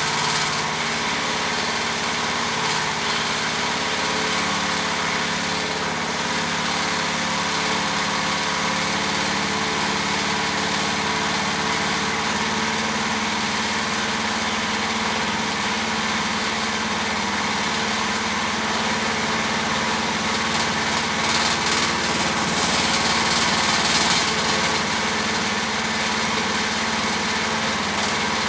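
A small gasoline engine running steadily, with an even hum whose note changes slightly about twelve seconds in.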